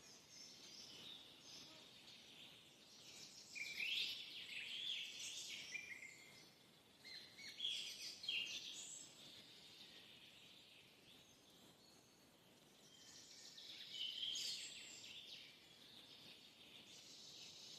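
Birds chirping and singing faintly, in several bursts of quick high chirps with quieter gaps between them.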